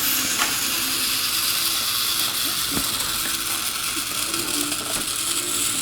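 A battery-powered GeoTrax toy train running along its plastic track: a steady hiss with faint mechanical whirring, and a single click about halfway through.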